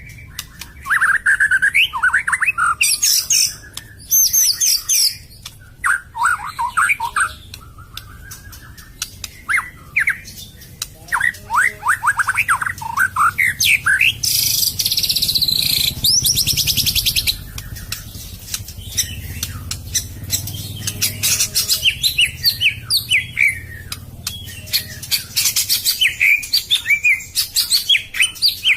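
White-rumped shama (murai batu) singing: a varied stream of quick whistled phrases, sweeping notes and fast trills, with a harsh rattling stretch about halfway through.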